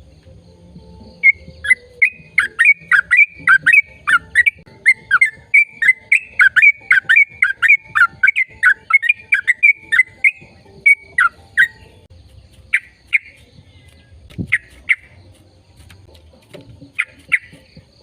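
A bird calling in a fast run of short, loud chirps that drop in pitch, about three or four a second. Past the middle they thin out to scattered single chirps and pairs.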